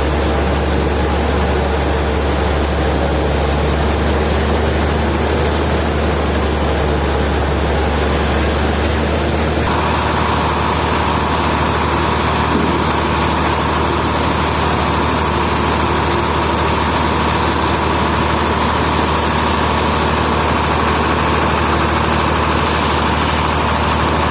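Heavy sawmill machinery running steadily with a deep engine hum; a steady higher whine joins about ten seconds in.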